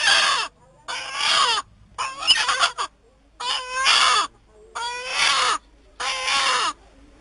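A chicken calling over and over: six short pitched calls, each under a second long, about a second apart.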